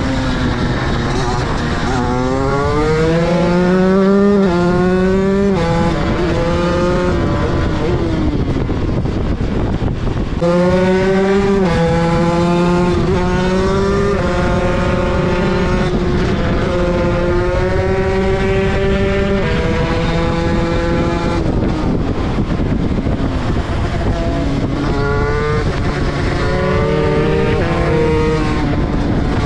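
Motorcycle engine accelerating hard through the gears, its pitch climbing and dropping back at each shift. There are two runs of several upshifts, then the engine eases off and picks up again near the end.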